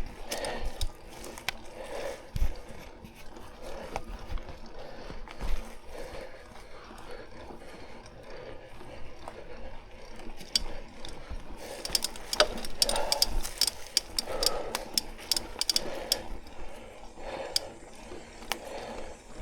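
Mountain bike ridden over rough singletrack: the chain and freehub ratchet clicking and the bike rattling, with frequent sharp ticks that get denser in the last third, over low knocks from bumps.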